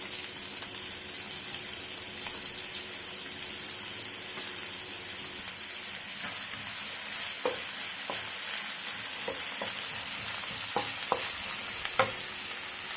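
Sliced onions frying in hot groundnut oil with a steady sizzle. In the second half a utensil clicks against the pan several times as they are stirred.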